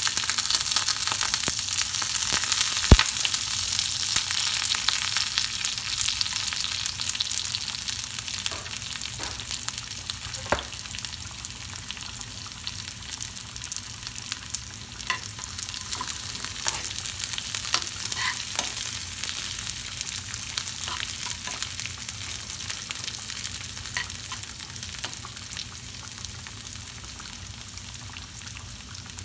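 Mustard seeds, sliced shallots and curry leaves frying in hot oil in a small pan, a steady sizzle with scattered pops and crackles, one sharper pop about three seconds in. The sizzle is loudest as the shallots go in and slowly dies down as they fry.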